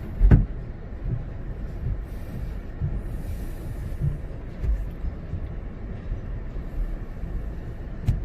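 Steady low rumble of a tunnel car wash's conveyor and equipment heard from inside the car, with uneven low knocks and a sharp thump just after the start.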